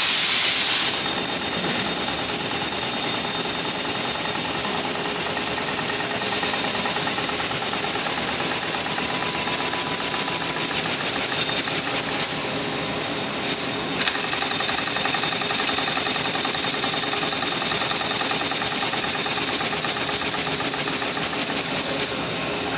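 Small shop-built aluminium compressed-air engine running, puffing its exhaust in a rapid, even beat over a steady hiss of air. About halfway through the puffing pauses briefly, then picks up again, and it stops near the end, leaving only the hiss.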